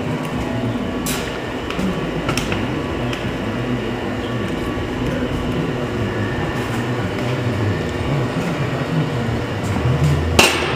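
Steady low machine rumble with a few sharp knocks: one about a second in, another at about two and a half seconds, and a louder one near the end.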